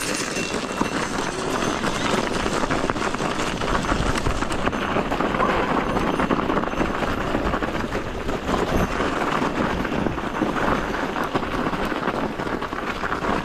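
Electric mountain bike being ridden on a snowy trail. Its tyres crunch and rattle over the rough surface in a steady, dense noise, with many small knocks throughout.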